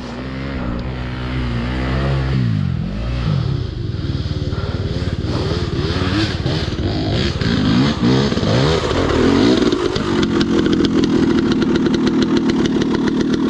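Off-road dirt bike engine revved up and down over and over, then held at a steady, higher rev from about ten seconds in, as the bike struggles for grip on a muddy climb.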